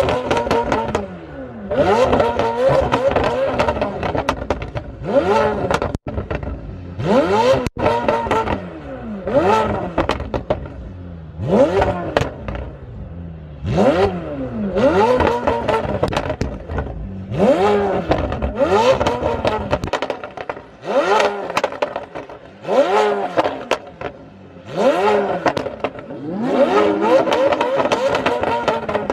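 High-performance car engines revving hard again and again, about every two seconds. Each rev climbs sharply in pitch and then falls away.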